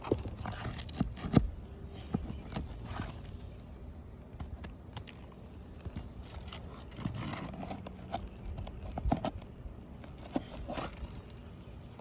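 Roofing snake worked under shingles to pull out roofing nails: irregular scraping of metal against shingle, broken by sharp clicks and knocks as nails are caught and pulled.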